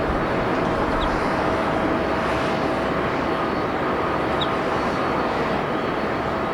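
Jet airliner engines on approach to land: a steady rumble with a faint high whine held at a constant pitch.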